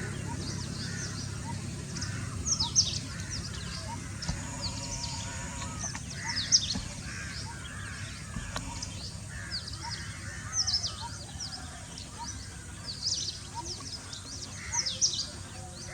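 Birds calling: clusters of short, high, falling chirps every second or two over a low steady rumble.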